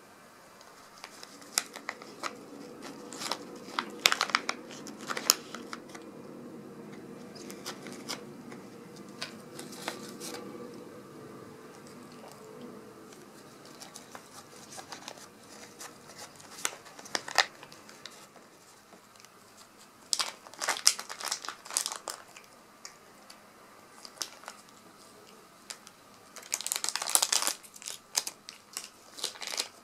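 Plastic cat-treat pouch crinkling and crackling as it is handled, in several separate bursts.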